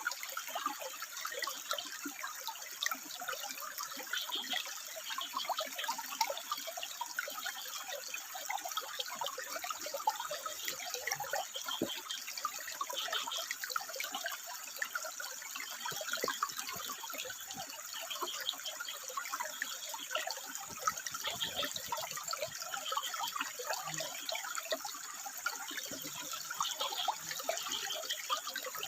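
Water trickling and splashing steadily over rocks.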